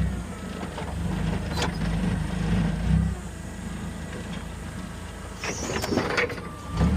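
A heavy diesel vehicle engine running steadily, with a few clunks and rattles.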